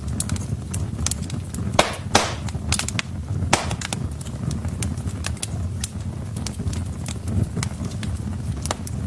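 Wood fire burning in a fireplace: irregular crackles and sharp pops over a steady low rumble of the flames, with a few louder pops about two and three and a half seconds in.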